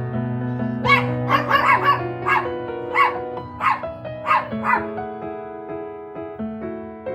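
Small dog, a toy poodle, giving a quick run of short, high yaps for about four seconds, over gentle background piano music.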